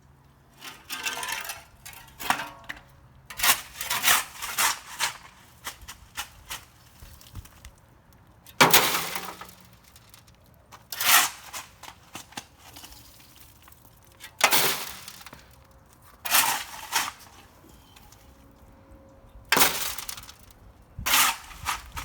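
Construction rubble and debris clattering and crunching as it is moved by hand, in about a dozen irregular bursts, the longest about nine seconds in.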